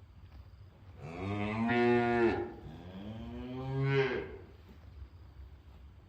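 A cow mooing twice: two long calls back to back, each rising in pitch as it begins, the first starting about a second in and the second ending a little past four seconds.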